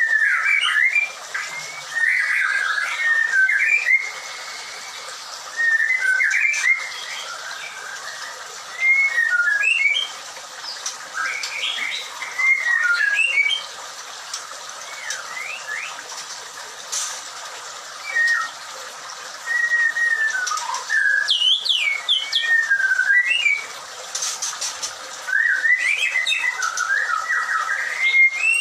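White-rumped shama (murai batu) singing: short phrases of varied, gliding whistles, repeated every few seconds.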